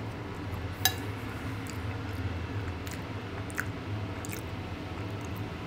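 A person chewing a mouthful of soft potato-and-pumpkin gnocchi, with a sharp click about a second in and a few faint small clicks after, over a steady low background hum.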